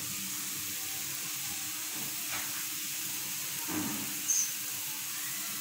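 Onion and spice masala frying in oil in a kadai, a steady soft sizzle, as gram flour is added.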